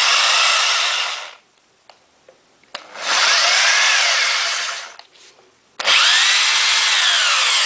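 Boray electric rotary hammer drill run by trigger in three short bursts of about two seconds each, spinning freely in reverse with no hammer impacts. In the later bursts the motor's whine sweeps up in pitch as it speeds up and falls away as it winds down.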